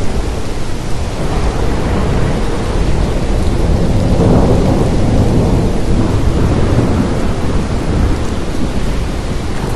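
Heavy rain falling steadily, with a deep rumble swelling about four seconds in.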